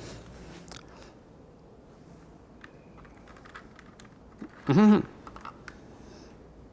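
Soft scattered clicks, like keys or buttons being handled, and one short held note about five seconds in that slides up into pitch before holding steady, most likely from an accordion.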